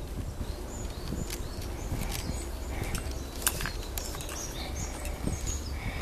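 Small birds calling in a woodland thicket: many short, high chirps and sharp ticks scattered through, over a steady low rumble.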